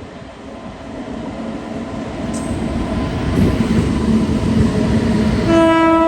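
Indian Railways passenger train approaching, its rumble on the rails growing steadily louder. About five and a half seconds in, the locomotive's horn starts a steady, held multi-note blast.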